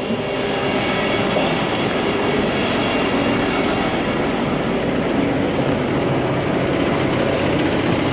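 Heavy tow truck driving off, its diesel engine and road noise running as a steady rumble and hiss.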